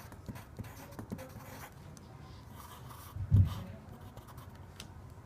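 Pen or pencil scratching on paper in short strokes, drawing a map, with a single dull low thump a little over three seconds in.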